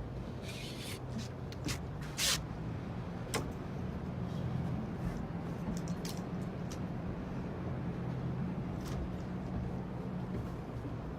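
Boat engine running steadily with a low hum, with a few sharp knocks and clatters on board, the loudest about two seconds in.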